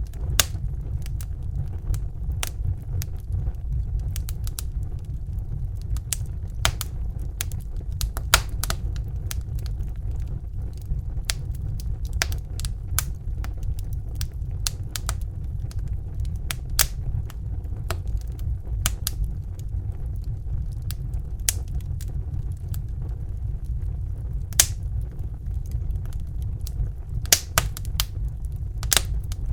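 Crackling wood fire: irregular sharp snaps and pops, a few louder ones, over a steady low roar of a Bunsen burner flame.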